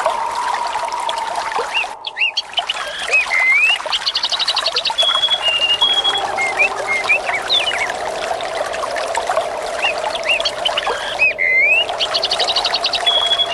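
Flowing water trickling steadily under several birds calling: short rising chirps, a fast trill and level whistled notes. The same stretch of birdsong and water repeats about every nine seconds, with a brief dropout where it starts over.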